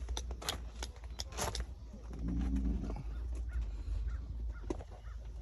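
Footsteps, a run of sharp steps in the first second and a half, over a steady low rumble, with a short animal call about two seconds in.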